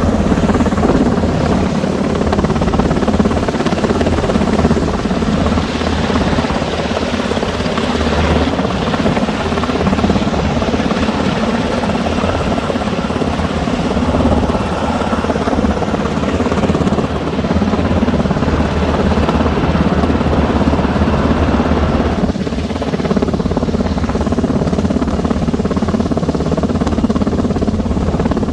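Black Hawk helicopter close by, its twin turbine engines and rotors running loud and steady.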